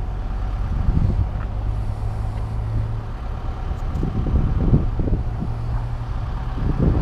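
A motor vehicle's engine running with a steady low hum, while gusts of wind buffet the microphone, more strongly in the second half.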